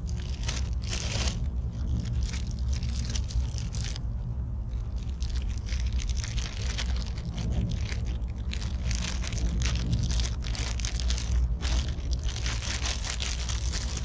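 Meatballs and onions sizzling and crackling in a Trangia 27 frying pan, a dense continuous crackle of spitting fat over a steady low rumble.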